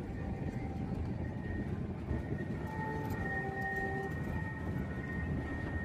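Train running past with a steady low rumble. Faint held tones, like a distant horn or whistle, sound from about two seconds in.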